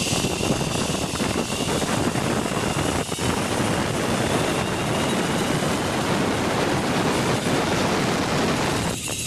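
Zipline trolley pulleys running fast along the steel cable: a steady rushing whir with a thin high whine through it. It breaks off sharply just before the end.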